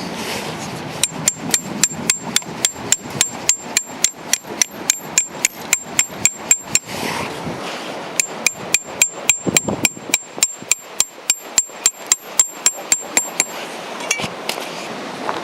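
Hammer driving a steel tent stake, rapid ringing metal-on-metal strikes at about four a second. Two bouts of blows with a short pause between them.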